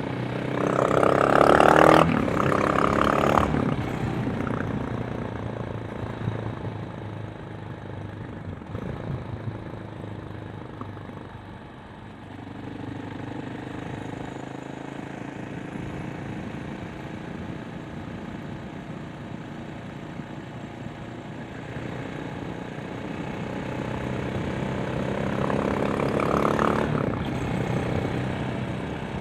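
KTM 690 Enduro R's single-cylinder four-stroke engine and exhaust pulling under way, with two strong surges of acceleration in the first few seconds. It then runs steadier and quieter, builds again near the end and eases off.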